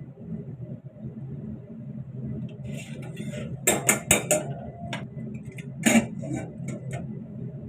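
Kitchen dishes and utensils clinking and clattering: a cluster of sharp knocks about halfway through and another near the end, over a low steady murmur.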